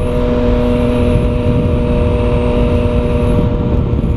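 Yamaha FZ-09's inline three-cylinder engine running at a steady cruise through an aftermarket Arrow exhaust with the dB killer removed, over a steady rush of noise.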